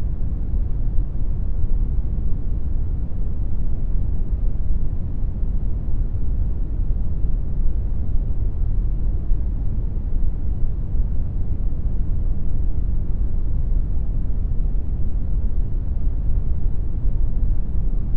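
Synthetic brown noise generated in Audacity: a steady, deep rushing hiss with most of its energy in the low end and little in the highs.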